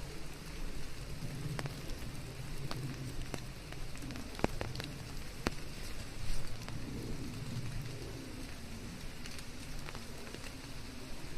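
Steady rain falling, with scattered single drops landing close by as sharp ticks, over a low rumble.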